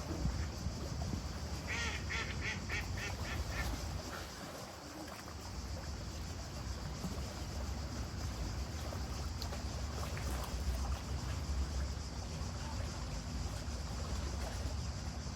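A duck quacking in a quick run of about eight calls, about two seconds in, over a steady low background rumble.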